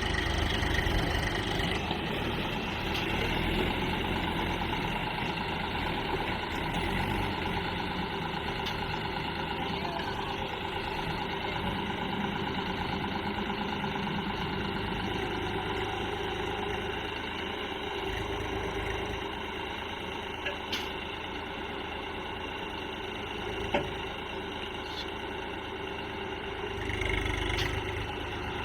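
Tractor engine running steadily at an even speed, with a couple of short clicks in the last third.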